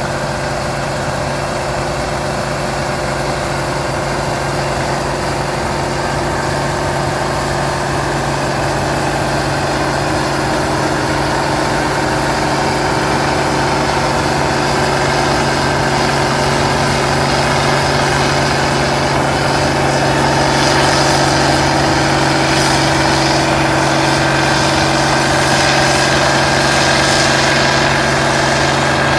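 1470 hillside combine running steadily while harvesting wheat: an even engine hum with the rattle and hiss of the threshing machinery. It grows a little louder and hissier in the last third.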